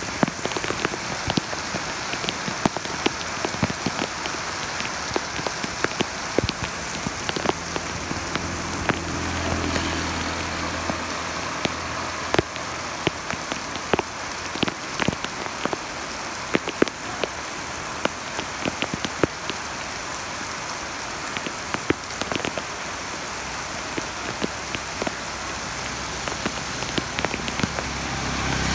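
Heavy rain falling on a wet paved street: a steady hiss with many sharp drop taps close by. A low hum rises and fades about a third of the way through, and another low hum swells near the end.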